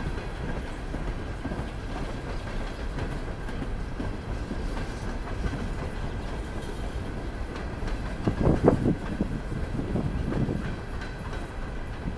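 Norfolk Southern freight train's cars rolling past, a steady rumble with the wheels clacking over the rails, and a louder burst of clatter about two-thirds of the way through.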